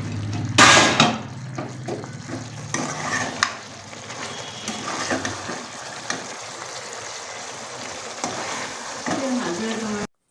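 Food sizzling and frying in a pan, with a utensil stirring and clicking against it. A low hum runs under the first half, and the sound cuts off suddenly near the end.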